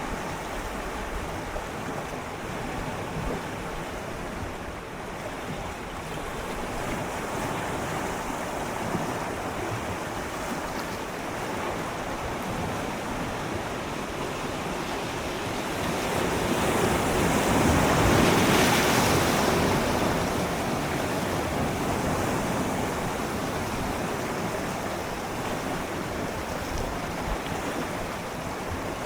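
Gentle sea waves swirling and lapping against shoreline rocks, with a steady wash that swells into a louder surge about two-thirds of the way through and then eases off.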